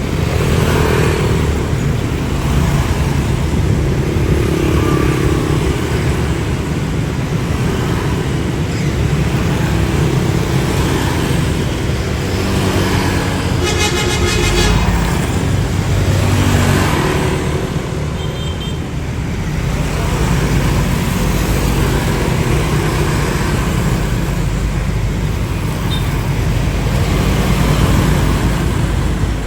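Steady road traffic noise, with a vehicle horn honking once for about a second midway through.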